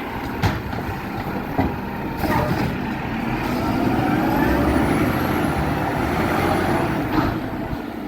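Garbage truck at work: a steady engine rumble with a rising whine from about three to seven seconds in. There is a brief hiss about two seconds in and a few sharp clicks before it.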